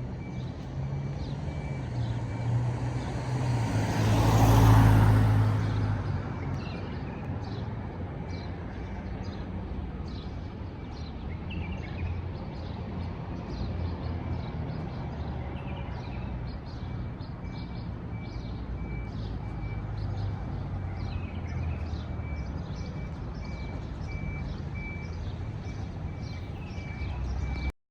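Steady road traffic rumble, with one vehicle passing close that swells and fades about four to five seconds in. Short high chirps run through the later part, and the sound cuts off abruptly just before the end.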